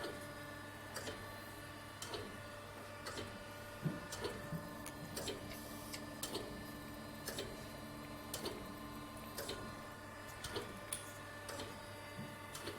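Okamoto ACC-63XD surface grinder running: a steady hum holding several constant tones, with light clicks about once a second.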